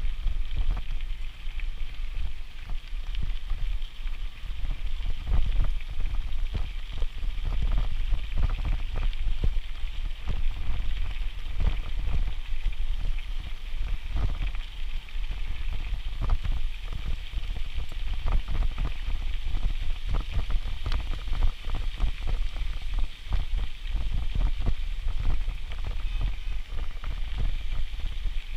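Wind buffeting the microphone of a camera riding along on a bicycle: a heavy, gusty low rumble that keeps rising and falling, with a steady hiss above it.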